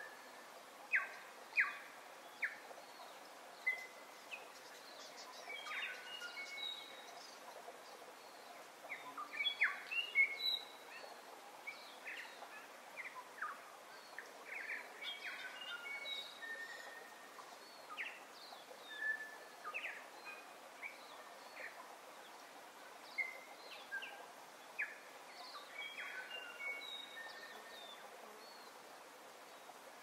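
Several birds chirping and whistling: short calls and brief whistled notes every second or so, over a steady hiss of outdoor background noise.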